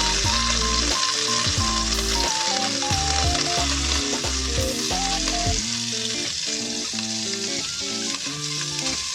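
Food sizzling as it fries in a pan, a steady hiss, with background music playing alongside.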